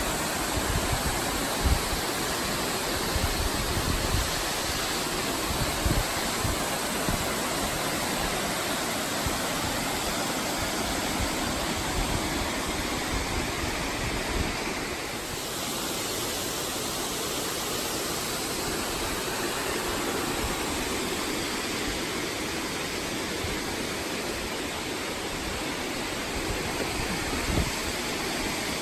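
Steady rushing noise with occasional low bumps, mostly in the first few seconds.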